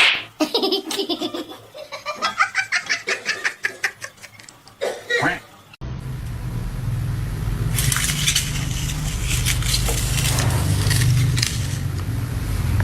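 A person laughing hard in quick repeated bursts, which stops sharply about six seconds in. It is followed by a steady low rumble and hiss with a flurry of crackles and clicks in the middle.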